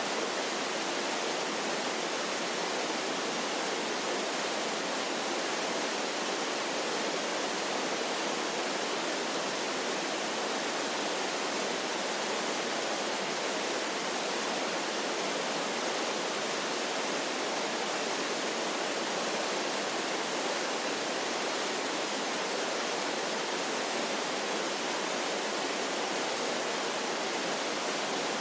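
Waterfall sound effect: a steady, unbroken rush of falling water, an even hiss with little deep rumble.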